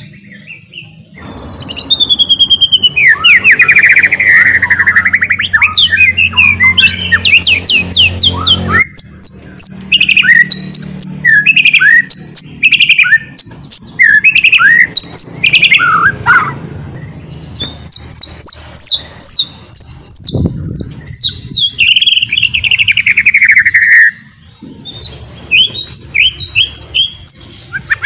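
White-rumped shama singing a loud, fast, varied song in the rapid twittering 'ngeriwik' style: quick runs of notes, long descending trills and short whistles. The song pauses briefly about a second in and again near the end.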